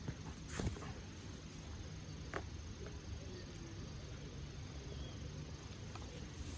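Hardwood campfire crackling: a few sharp pops, the loudest about half a second in and another about two and a half seconds in, over a steady low hiss.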